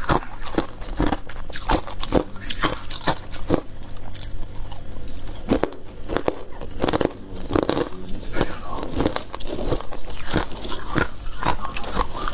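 Close-up biting and chewing of freezer frost: a string of crisp, irregular crunches, a few a second, with a short lull in the middle.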